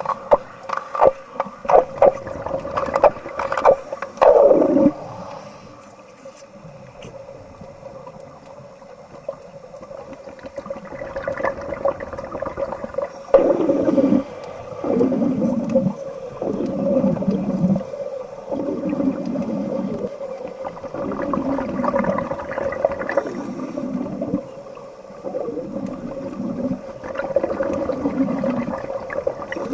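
Bubbling and gurgling heard underwater: surges with a falling pitch repeat about once a second over a steady hum. The first few seconds hold a run of sharp clicks.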